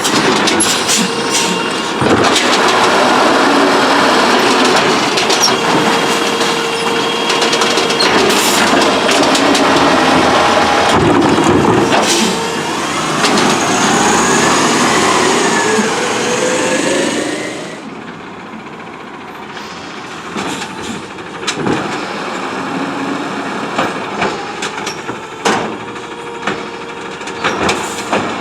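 CNG Autocar ACX garbage truck with an Amrep automated side-loader arm working: engine and hydraulics running loud, with whining tones that rise and fall and scattered clanks. About two thirds of the way through it drops suddenly much quieter, with occasional knocks.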